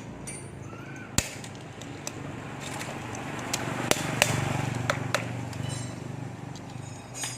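Sharp knocks and clinks of metal tools and parts during reassembly of a submersible pump, over a low hum that swells and fades in the middle.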